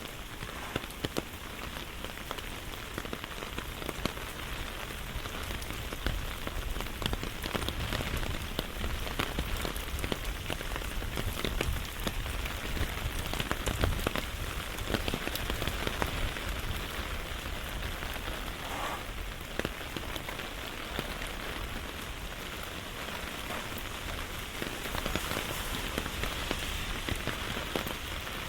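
Steady rain falling, with many sharp raindrop ticks close by.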